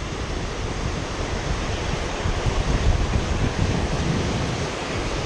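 Steady rushing noise of wind buffeting the microphone, with a low, fluttering rumble over a constant hiss of water.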